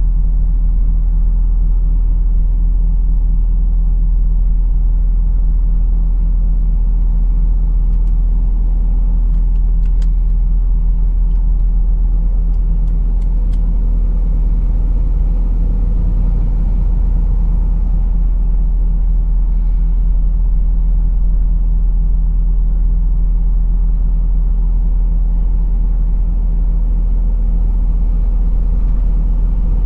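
Truck's diesel engine running at a steady low drone while driving, with a few faint clicks about a third of the way through.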